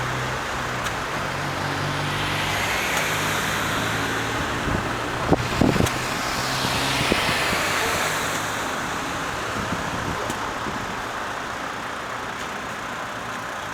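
Heavy-haul tractor unit's diesel engine running at low revs while towing a Shinkansen car on a trailer. Its hum fades after the middle as tyre noise swells and sweeps past, with a few sharp knocks about five seconds in.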